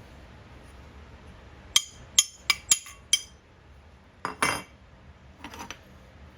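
Small metal pieces clinking: a quick run of five sharp clinks about two seconds in, a louder clatter just past four seconds, and a fainter clink near the end.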